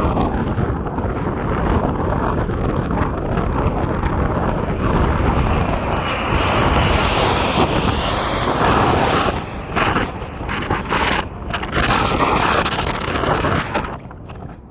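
Aircraft landing in strong wind: a loud, steady rush of aircraft noise, mixed with gusting wind on the microphone that turns choppy and buffeting over the last few seconds.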